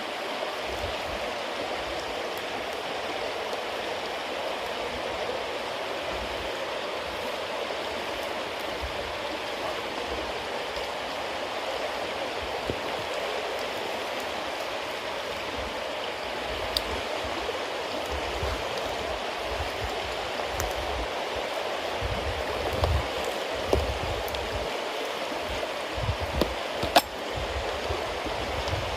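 Bonfire of wet cedar leaves and damp firewood burning with a steady hiss, a few sharp pops standing out, the loudest near the end. A low fluttering rumble comes and goes underneath.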